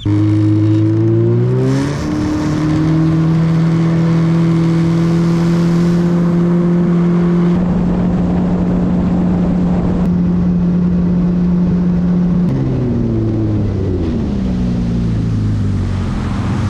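Yamaha FX Cruiser HO WaveRunner's four-stroke engine speeding up as the throttle opens, holding a steady pitch, then easing off about twelve seconds in and settling lower.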